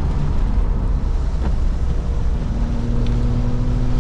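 BMW Z3M's 3.2-litre straight-six engine running under way, heard from inside the cabin over a steady rumble of road noise; about halfway through its note settles into a steady hum that climbs gently.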